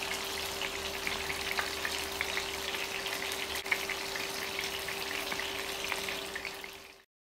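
Marinated chicken pieces sizzling in hot oil in a nonstick frying pan: a dense, steady crackle of fine pops over a faint steady hum. One sharp click a little past halfway, and the sound stops abruptly near the end.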